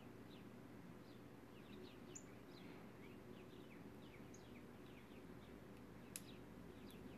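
Faint chirping of songbirds through an open window: many short, quick, downward chirps scattered throughout, over a steady low hum, with one sharp click about six seconds in.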